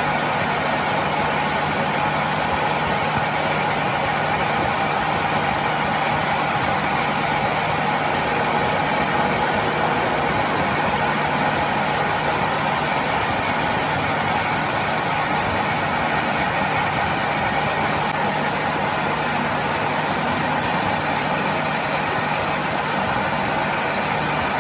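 A workshop machine running steadily: a constant, unchanging mechanical hum with a steady whine, starting abruptly.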